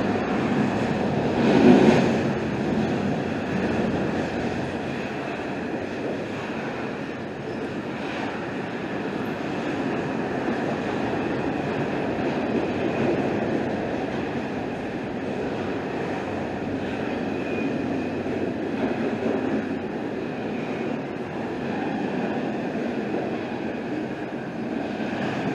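CSX double-stack intermodal freight train rolling past: a steady rumble and rattle of container well cars' wheels on the rails, with a louder clank about two seconds in.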